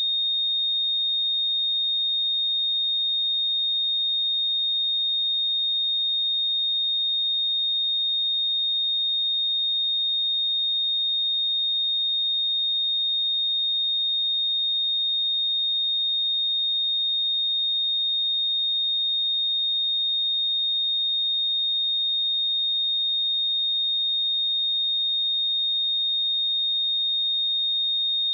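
Steady pure sine-wave test tone at 3692 Hz, a single high-pitched note held at an even level.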